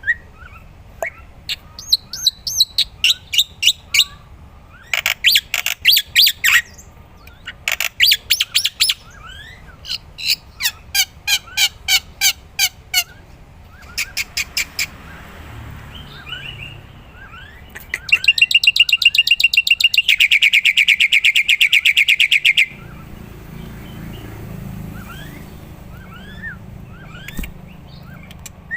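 Black-winged starling (jalak putih) singing actively: bursts of rapid, sharply repeated chirping notes, then a loud, very fast trill lasting about four seconds past the middle, followed by softer scattered calls.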